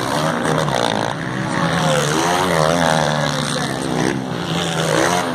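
Several motocross bike engines revving and easing off again and again, their pitch rising and falling with the throttle over a steady low engine drone.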